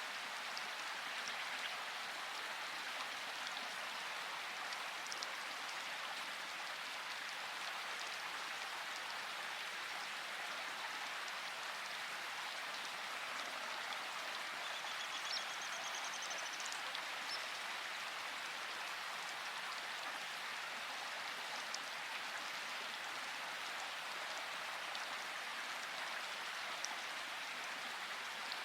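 Steady rain falling: an even, unbroken hiss with scattered sharper drop impacts.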